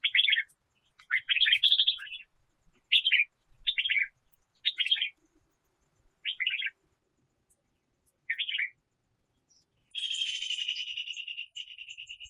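Wild bird calling: short bursts of chirps roughly once a second, then about ten seconds in a longer rapid trill that fades out.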